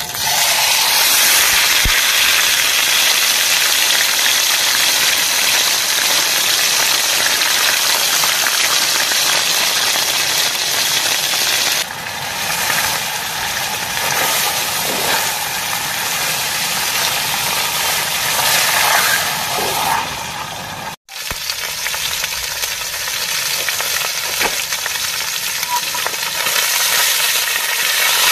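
A chunk of meat sizzling in hot oil in a small camping pot, a loud hiss that starts the moment the meat goes in. The sizzle settles a little quieter about halfway through and cuts out for an instant about two-thirds of the way in.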